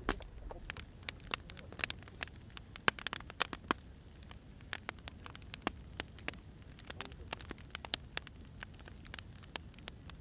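Wood fire crackling: irregular sharp pops and snaps from burning firewood over a low, steady rumble of the flames, with a cluster of louder pops a few seconds in.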